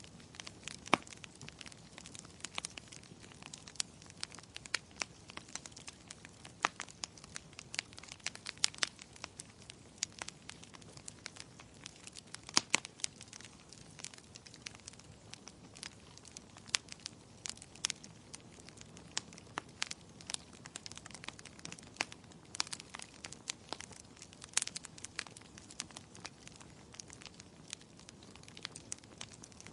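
Wood fire crackling: irregular sharp pops and snaps, several a second, over a soft steady hiss of flame.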